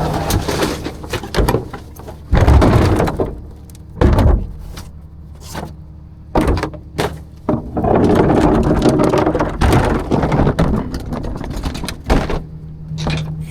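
Rear-loader garbage truck working dumpsters: a series of loud metal bangs and clatters, then several seconds of dense rumbling noise, with a steady low hum from the truck returning near the end.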